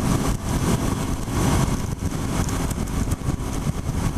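2007 Suzuki SV650's 90-degree V-twin with a full Yoshimura exhaust, running steadily under way, mixed with a steady rush of riding noise.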